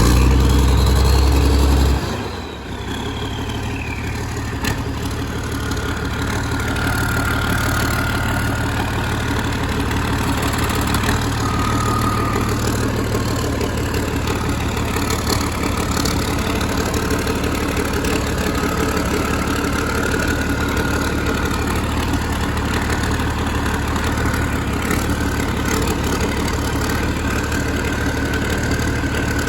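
An engine that has just started runs loud for about two seconds, then settles into a steady idle, with a faint whine wavering in pitch above it.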